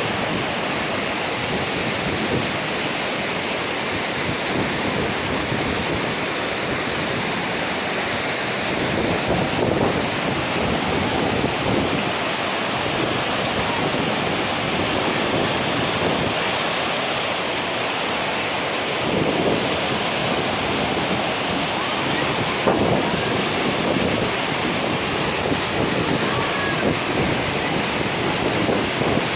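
Waterfall: a steady rush of falling water, with wind gusting on the microphone.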